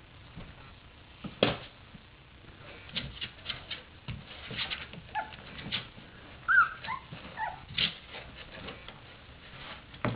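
Three-week-old Portuguese Water Dog puppies giving a few short high whimpering squeaks in the second half, among scattered clicks, knocks and scratches of the puppies moving about.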